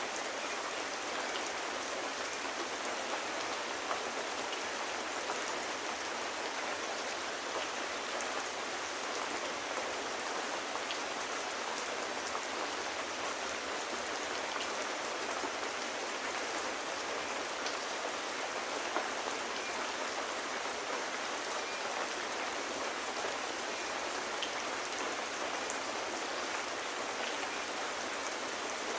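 Steady rain falling on a surface, an even hiss of drops, with a couple of sharper ticks standing out about 4 and 19 seconds in.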